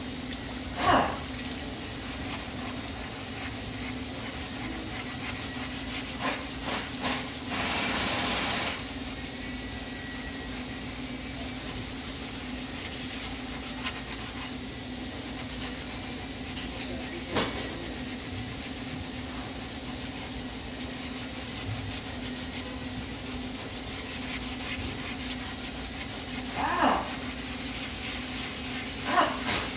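Auto body shop background: a steady machine hum, a burst of hiss lasting about a second some eight seconds in, and a few scattered knocks.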